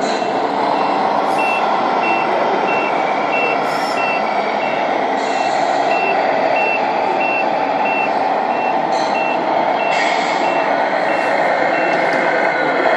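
Reversing beeper of a scale RC truck's sound module, a single high tone beeping about one and a half times a second and stopping near the end, over steady loud background noise.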